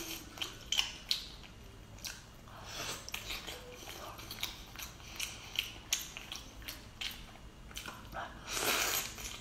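Close-up eating sounds of a woman chewing a thick slab of salmon, with wet mouth clicks and smacks scattered throughout. A louder bite into the salmon comes near the end.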